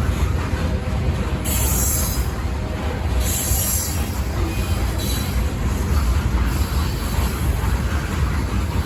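Freight train cars rolling past with a steady low rumble, with brief high-pitched wheel squeals about a second and a half in and again around three and a half seconds.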